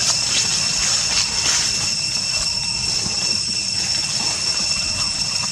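Steady high-pitched drone over an even hiss and a low rumble.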